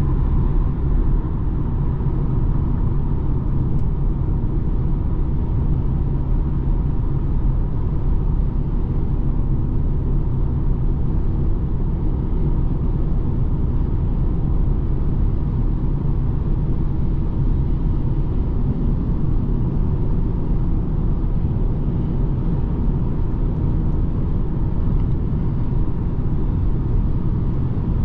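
BMW 220d xDrive Gran Coupe driving at a steady pace: a low, even rumble of its four-cylinder diesel engine and tyre and road noise, with a faint steady hum above it. It eases slightly quieter about a second in.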